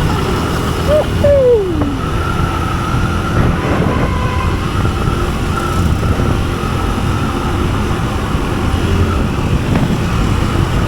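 Steady road traffic and vehicle engine noise heard while riding through city streets. A short tone slides down in pitch about a second in, and a thin steady whine runs through most of it.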